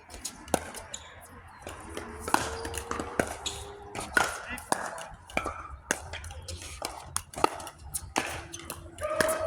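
Pickleball rally: sharp pops of paddles striking the plastic ball, at an irregular pace, with players' voices talking faintly in the background.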